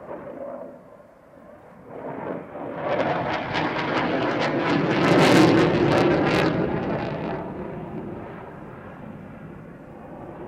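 Panavia Tornado IDS jet flying past, its two RB199 turbofans building to a loud, crackling peak about five seconds in, then fading away.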